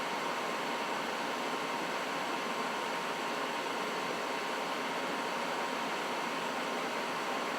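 Trane XB80 gas furnace running: a steady, even rush of air with a faint steady tone.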